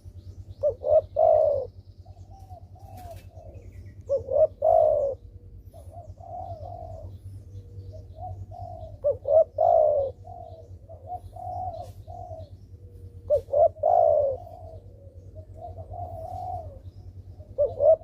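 Spotted dove (derkuku) cooing in repeated phrases. A loud phrase of two or three coos comes about every four seconds, with softer coos between them, over a faint steady low hum.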